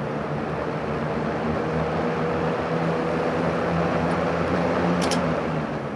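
1971 Wizard 12-inch box fan, a rebadged Lasco, running on low speed: a steady motor hum with the even rush of air from its plastic blades, nice and quiet, with no startup noise. A brief tick about five seconds in.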